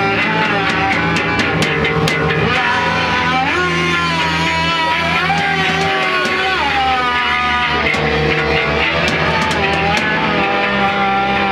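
A rock band playing live, with a guitar line of long held notes that bend up and down over a steady bass and drums.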